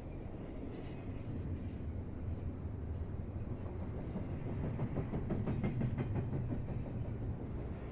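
A train running on the rails: a steady low rumble that grows a little louder, with a quick run of wheel clicks a little past the middle.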